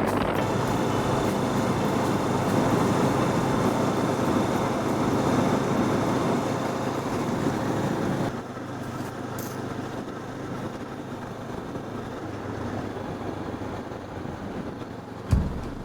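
Motorcycle engine running with wind noise while riding; about eight seconds in the sound drops noticeably quieter as the engine runs more gently, and a short thump sounds near the end.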